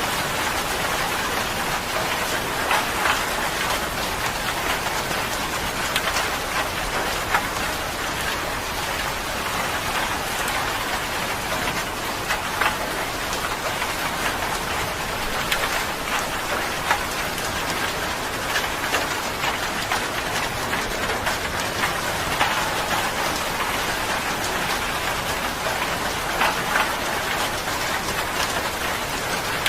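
Steady rain falling on a surface, an even hiss dotted with sharp drop strikes.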